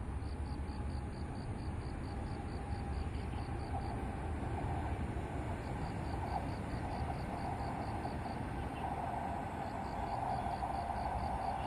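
Low rumble and a rising rail hum of an approaching train, growing louder toward the end, with an insect chirping over it in an even rhythm of about four pulses a second.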